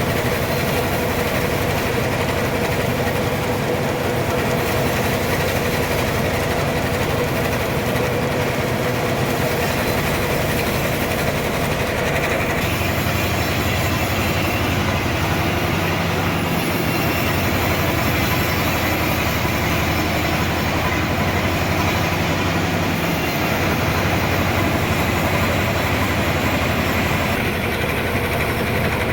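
Sawmill machinery running steadily while a trembesi log is sawn into boards, with a deeper hum setting in about halfway through.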